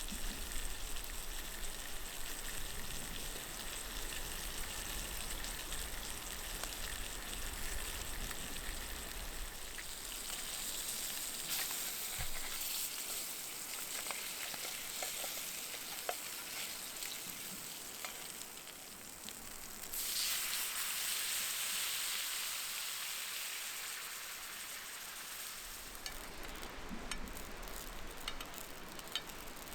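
Food sizzling in oil in a Turk iron frying pan over a wood fire: a steady frying hiss with scattered small clicks and pops, turning louder about two-thirds of the way through and then easing off.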